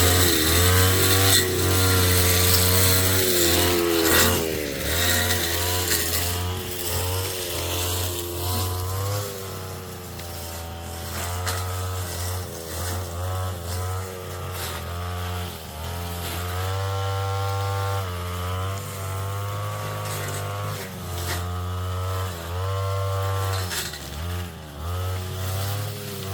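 Brush cutter's small petrol engine running under load, its pitch rising and falling again and again as the blade is swung through weeds, with short ticks and hits of cut vegetation mixed in.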